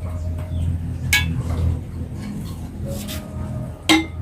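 A steel bar being handled and set down, with a few sharp metallic clinks that ring briefly, about a second in and twice near the end, over a steady low hum.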